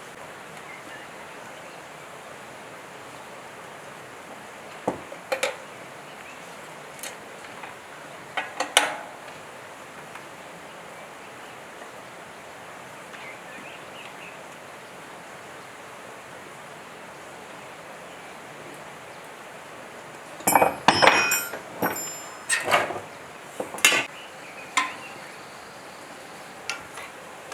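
Metal tools and generator parts knocking and clinking during disassembly of a blown-up generator: a few scattered clicks and clanks, then a quick run of louder metallic clanks with brief ringing about twenty seconds in.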